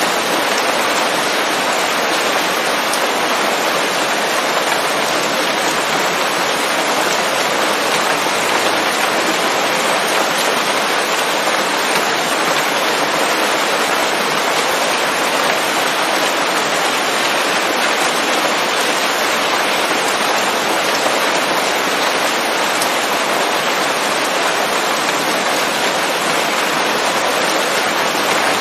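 Steady rain falling on leafy forest foliage, an even unbroken patter with no thunder.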